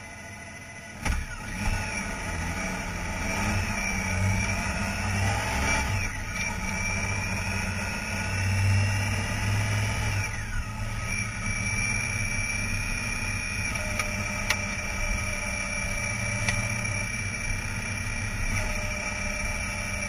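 Honda Gold Wing GL1800's flat-six engine under way, coming in about a second in and accelerating, its pitch rising and dropping back with upshifts near six and ten seconds in, then running steadily at cruising speed.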